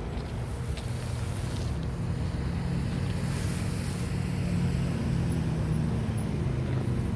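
Diesel locomotive engine running with a steady low drone, which grows louder about a second or two in and again around the middle.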